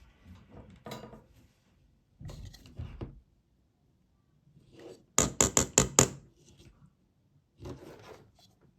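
Handling knocks and rustles, then about five seconds in a quick run of about six sharp clicks in under a second.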